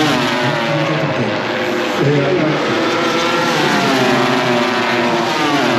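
MotoGP racing motorcycle engines running on track, the engine note falling several times as the bikes brake and go down through the gears or pass by.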